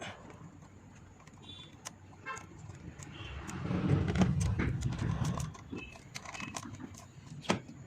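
Hands and tools working on an engine bay with the engine off: scattered clicks and knocks, a louder stretch of clattering and rustling in the middle, and a sharp click near the end.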